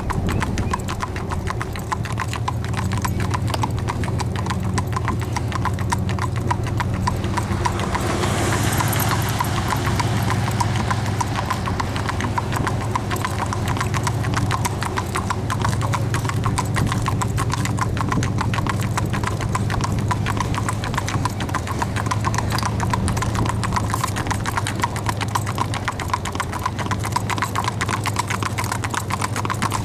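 Hooves of a Standardbred stud beating fast and evenly at speed, a continuous quick clip-clop over a steady low hum.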